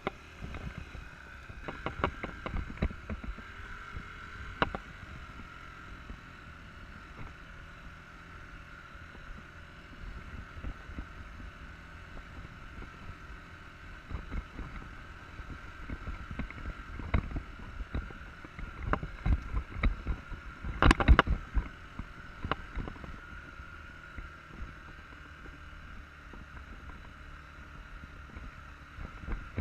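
Enduro dirt bike running over rough trail, with wind buffeting the microphone and irregular knocks and thumps from the bumps. A cluster of hard knocks about two-thirds of the way through is the loudest part.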